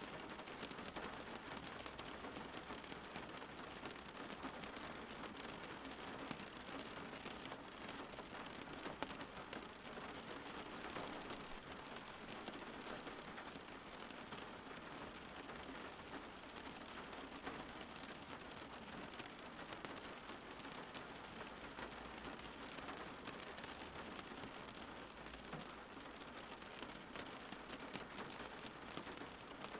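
Steady rain falling on a surface, a continuous even patter with scattered drop ticks and a faint low rumble underneath.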